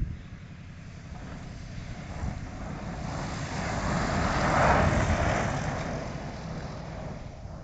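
Small propeller-driven light aircraft passing close by, its engine and propeller noise swelling to a peak about five seconds in and then fading away, with wind rumbling on the microphone.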